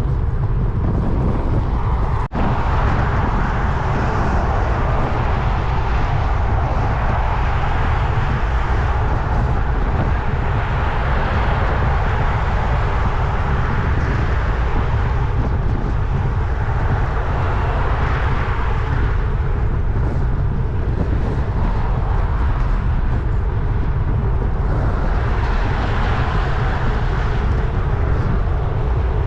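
Wind buffeting the microphone of a camera on a moving road bike, a steady heavy rumble with hissing swells that rise and fall every several seconds.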